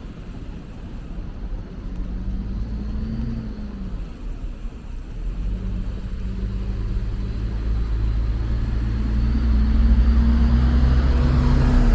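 A car engine in street traffic, running close by. Its pitch rises and falls once about three seconds in, then climbs slowly as it grows louder, over a steady low rumble.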